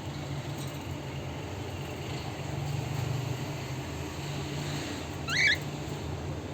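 A cockatiel gives one short, rising chirp about five seconds in, over a steady low hum.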